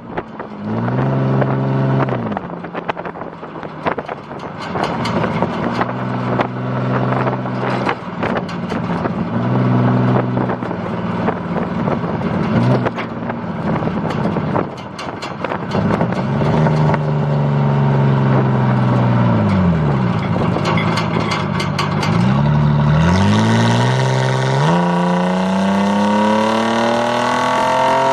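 Ford Ranger's engine heard through its custom stack exhaust, revving up and falling back over and over. Near the end it makes one long, steady climb in revs.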